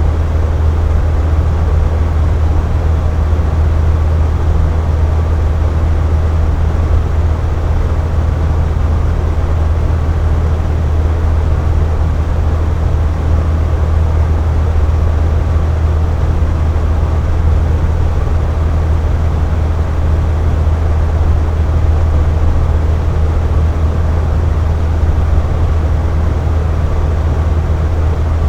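Air conditioner running: a steady, unbroken drone, deep in pitch, with a soft airy hiss above.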